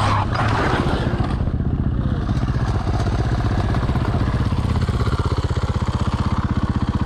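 Supermoto motorcycle engine running at a steady idle, a low, evenly pulsing beat.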